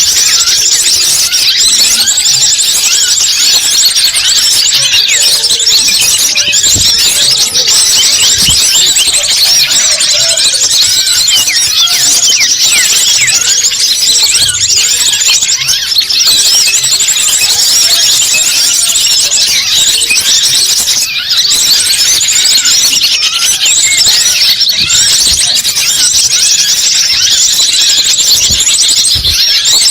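Many small birds chirping and twittering at once in a dense, shrill, unbroken chorus of rapid high calls.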